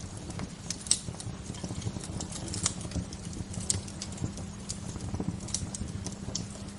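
Wood fire crackling, with irregular sharp pops and snaps of varying loudness over a steady low rush.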